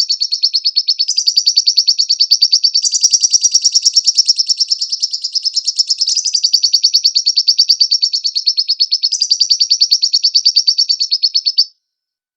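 Lovebird singing a long, fast, unbroken trill of shrill chattering notes, shifting phrase every second or two, then breaking off abruptly near the end into a pause.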